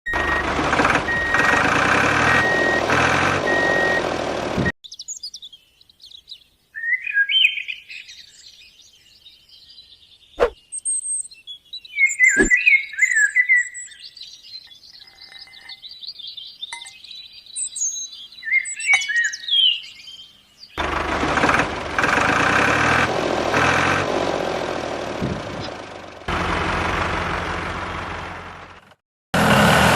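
An engine running steadily, cutting off suddenly about five seconds in. Birds chirp through the quiet stretch, with two sharp clicks, until the engine sound returns about twenty seconds in.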